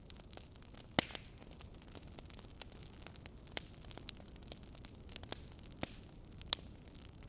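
Wood fire crackling: irregular sharp pops and snaps over a steady low hiss, the loudest pops about a second in and near the end.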